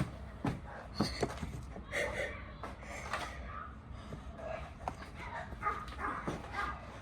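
A dog barking and yipping in short, irregular bursts.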